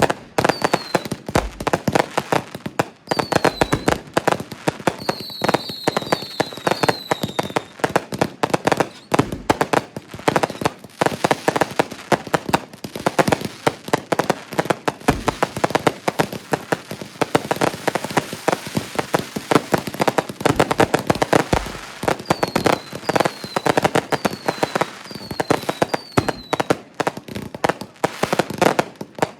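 Consumer fireworks going off in dense, continuous volleys of crackling and popping. Groups of short whistles fall in pitch several times, early on and again near the end.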